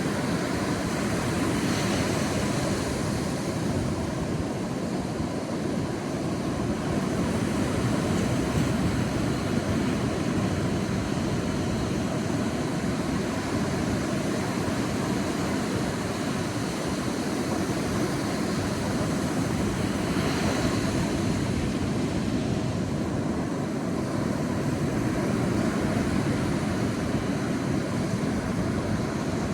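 Sea surf on a beach: a steady low rush of waves, with a brighter hiss of breaking water swelling up twice, near the start and again about two-thirds through.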